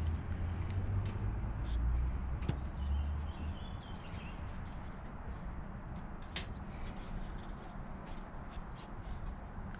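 Scattered light clicks and taps of a motorcycle's plastic trim part being handled and worked loose, with a low rumble in the first few seconds.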